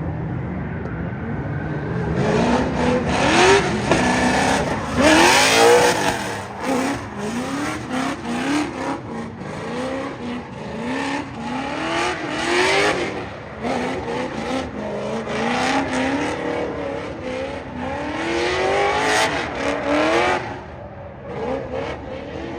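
Drift car engine revving hard again and again, its pitch climbing and dropping back every second or so, under a loud hiss of tyre noise; the sound thins out near the end.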